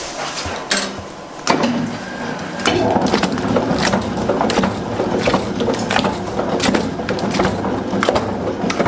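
Repeated wooden knocks and clatter. From about a second and a half in, a steadier machine-like hum joins them and the sound grows louder.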